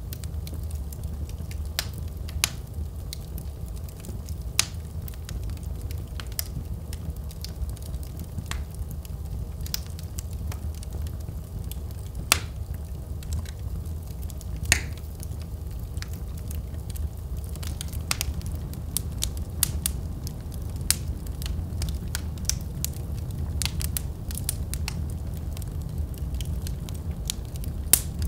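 Fire burning in a fireplace: a steady low rumble with frequent sharp crackles and a few louder pops.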